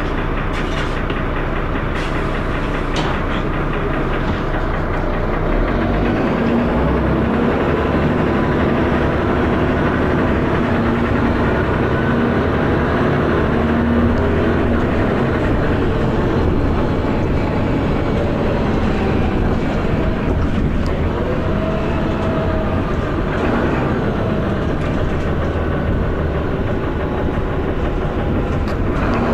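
Dennis Arrow double-decker bus's diesel engine thrashing while the bus is under way, heard from on board, a little louder from about six seconds in.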